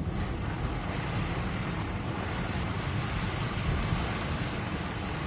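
Steady road noise inside a moving Jeep's cabin in a snowstorm: an even rushing of tyres and wind over a low engine hum.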